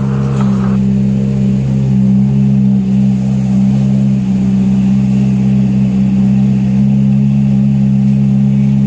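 Ferrari F430's 4.3-litre V8 running at a steady engine speed: a loud, even exhaust note with no revving.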